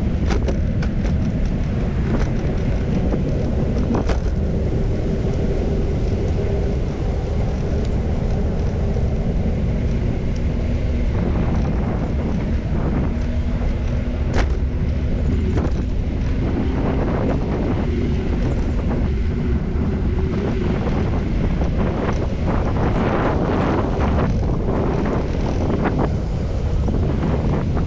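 Wind rumbling steadily on the microphone of a moving bicycle camera, mixed with passing traffic and a few light clicks.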